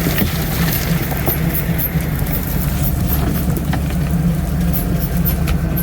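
Dump truck's diesel engine running, a loud steady rumble with light clicks and rattles over it.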